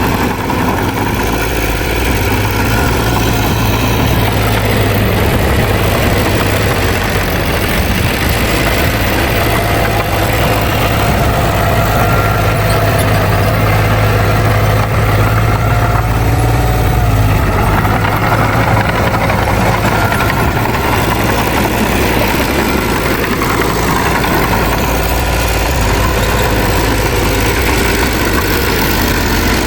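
Heavy diesel engine of earthmoving machinery running steadily with a deep, even drone that eases slightly about halfway through.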